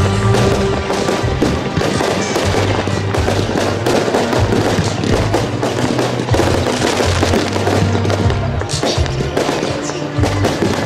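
Fireworks bursting in rapid, irregular succession, many bangs a second, with music playing underneath.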